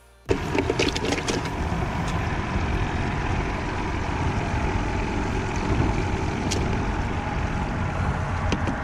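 Loud, steady outdoor rumble and hiss that starts abruptly about a third of a second in, with a few sharp clicks early on and once more later.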